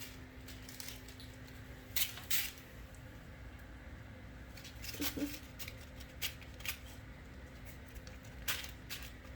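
Scattered light taps, clicks and scuffs of a kitten playing with a small toy on the floor, a handful of separate knocks spread irregularly over several seconds.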